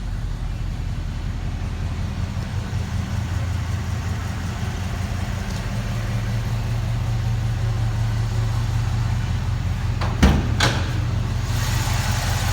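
1968 Chevy K10 pickup's engine idling steadily. Two sharp knocks come close together about ten seconds in.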